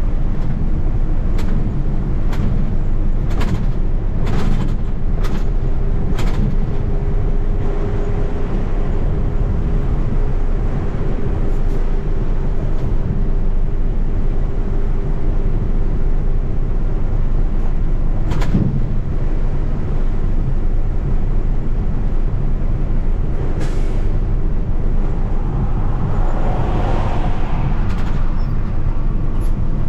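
Steady road and engine rumble inside a truck's cab while driving at highway speed, with a few scattered sharp ticks and knocks, and a brief hissing swell near the end.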